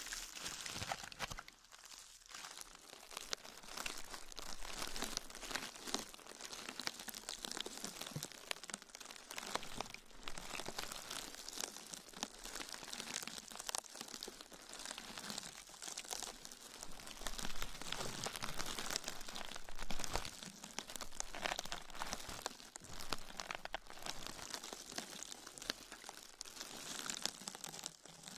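Close-miked ASMR crinkling and crackling, a dense stream of small sharp crackles from something being handled and crumpled.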